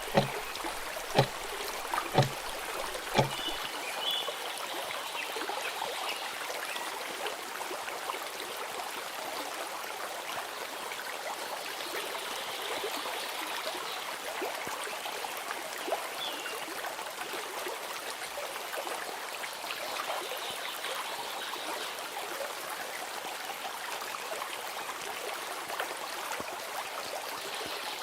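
Steady running water of a stream, an even rushing trickle. In the first few seconds it lies under the tail of the intro music, with a few sharp beats about a second apart that stop a little over three seconds in.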